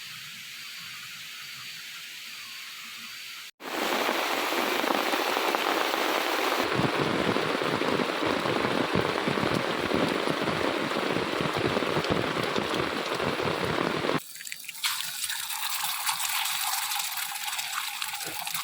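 Steady rushing water noise of rain and a flowing river, in short clips cut together. The loudest, fullest stretch runs from about four to fourteen seconds and is heavy rain pouring down.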